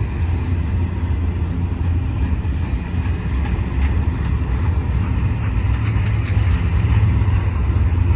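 Intermodal double-stack container train rolling past, a steady low rumble of wheels and cars with faint high ticks scattered through it, swelling a little after about five seconds.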